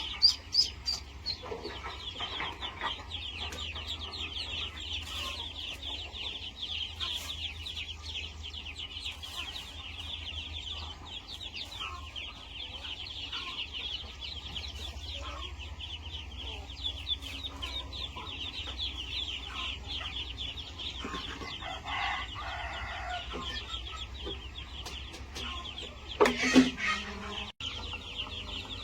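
Chickens clucking, with one louder call about 26 seconds in, over a constant high-pitched chirring.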